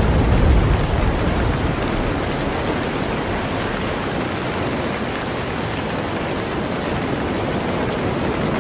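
Heavy rain falling steadily on a boat, a dense even hiss of drops. A low rumble dies away in the first second or so.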